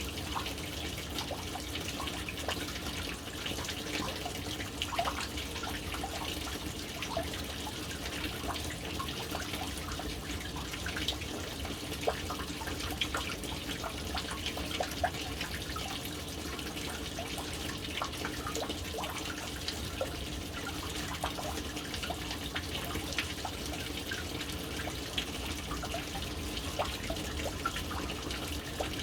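Water falling into a household water storage tank: a steady stream splashing into the water with many small scattered drips and splashes.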